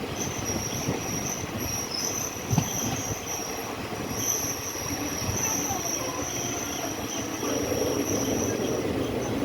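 Passenger train running, heard from on board: a steady rumble of wheels on the rails with a high squeal that keeps breaking off and coming back, and a single sharp knock about two and a half seconds in.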